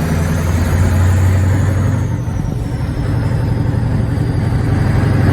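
Scania truck engine running steadily under way, a low drone, with a faint high whine that rises and then slowly falls.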